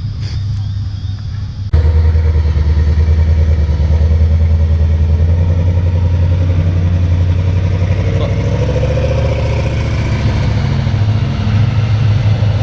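Car engine running close by with a deep, steady exhaust rumble, starting abruptly about two seconds in.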